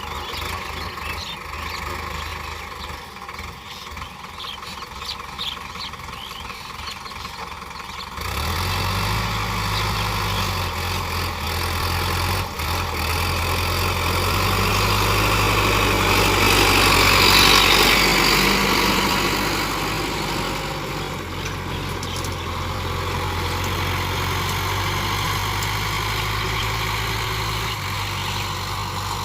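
Tractor engine running. About eight seconds in, a steady low engine note sets in and swells louder around the middle before settling.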